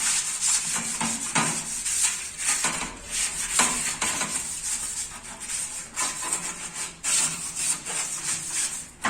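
Scrubber rubbing back and forth over a glass fridge shelf, in repeated scrubbing strokes.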